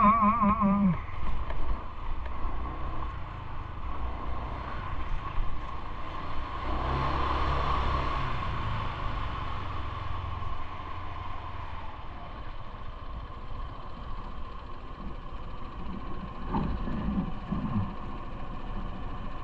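Steady street traffic and road noise heard while riding, with a low rumble and a faint steady whine; a vehicle passes and swells up about seven seconds in.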